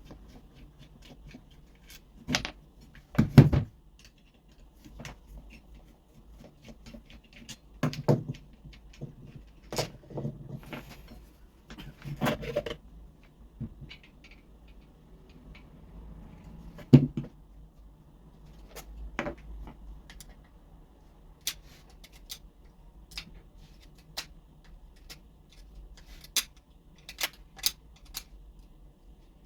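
Scattered clicks, knocks and light clatter of tools and parts being handled on a workbench, with the loudest knocks about three and a half seconds in and again about seventeen seconds in.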